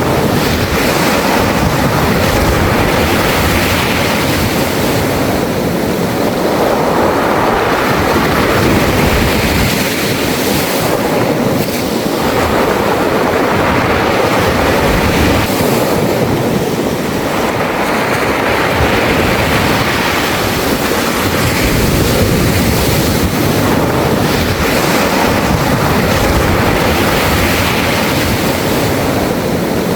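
Surf washing over a beach of smooth round pebbles, a continuous hiss that swells with each wave every five seconds or so, the pebbles rattling as the water rolls them.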